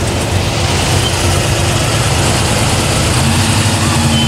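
Engines of American muscle cars rumbling steadily as the cars drive slowly past; a further steady engine note comes in about three seconds in as a second car passes.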